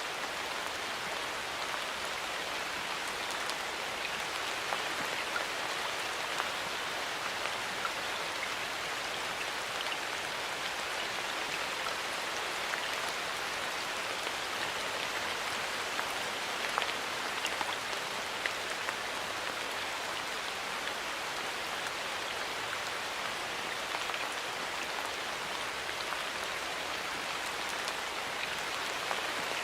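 Steady rain falling in a forest, an even hiss of many drops with scattered individual drop taps.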